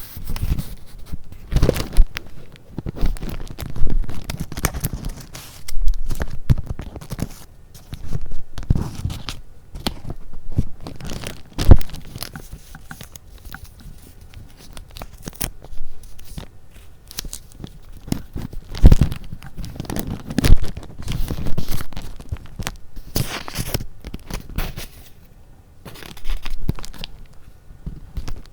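Paper being handled close to the microphone: irregular rustling and crinkling, some pieces sharp and crackly, some softer.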